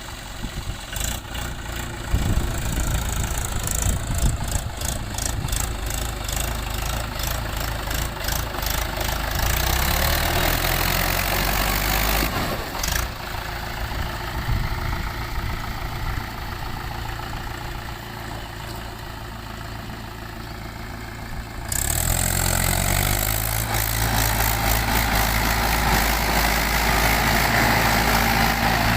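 Mahindra 575 DI tractor's diesel engine running steadily, then picking up speed and getting louder about three-quarters of the way through.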